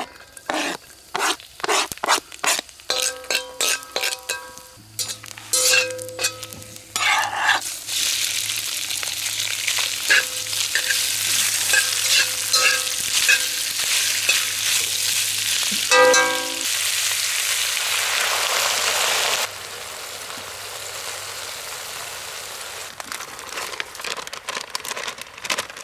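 Garlic and meatballs frying in a black wok over a campfire, stirred with a spatula. It opens with a run of taps and clicks as a knife scrapes garlic off a plastic cutting board into the pan, then a loud, dense sizzle that drops suddenly to a quieter sizzle about two-thirds of the way through.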